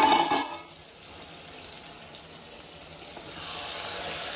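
Chicken pieces and masala sizzling in oil in an open pot, the sizzle growing louder about three seconds in as the food is stirred with a wooden spatula. A brief clatter at the very start.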